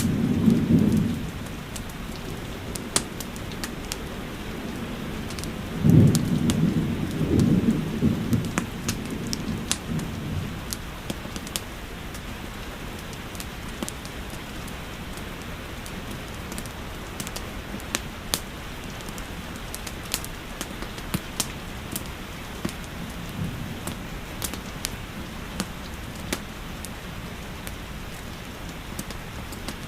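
Steady rain with sharp pops and crackles of a wood fire scattered through it. Two deep low rumbles stand out: a short one at the very start and a longer, louder one from about six to ten seconds in.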